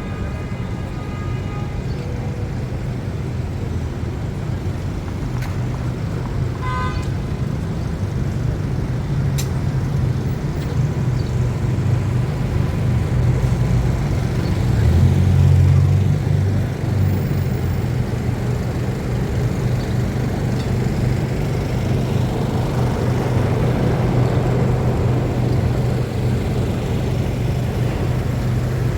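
City traffic: a steady low rumble of engines and tyres, rising to a heavier vehicle passing close about halfway through. A short horn toot about seven seconds in.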